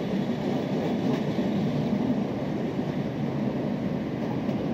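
Rumble of a train of double-deck car-carrier wagons rolling away over the rails, slowly fading as it recedes.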